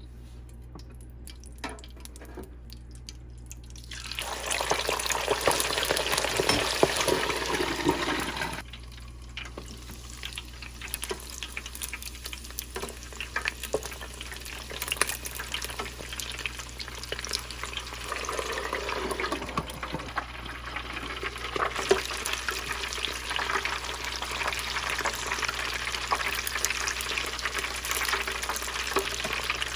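Chicken skins frying in hot rendered beef tallow and bacon grease: a dense crackling sizzle. It starts suddenly about four seconds in, drops back to a softer sizzle at about eight and a half seconds, and grows louder again from about eighteen seconds.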